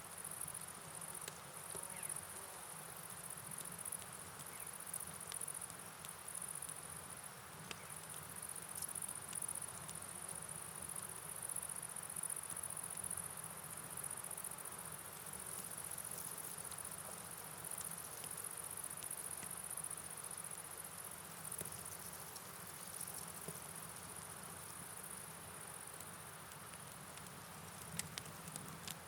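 Night ambience: a steady high-pitched chorus of crickets over an even wash of rain and river water, with scattered faint ticks of drops.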